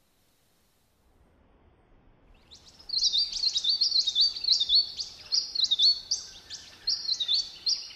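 A bird calling: a rapid run of high, hooked chirps, about three a second, starting about three seconds in.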